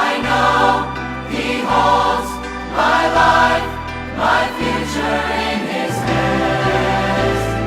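Background music: a choir singing a gospel hymn over sustained instrumental chords and a steady bass line.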